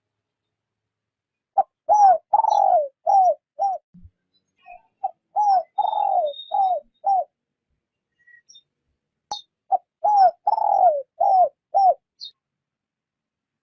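Spotted dove cooing the soft 'rút bổi' call used as a decoy: three phrases of five or six short, arching coos each, separated by brief pauses. Faint high chirps of small birds sound between and over the phrases.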